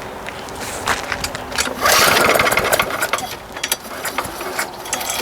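Lawn mower engine being pull-started: the recoil starter is yanked and the engine turns over without catching, one loud pull about two seconds in, with clicks and rattles around it. The engine will not start, having only weak, irregular spark.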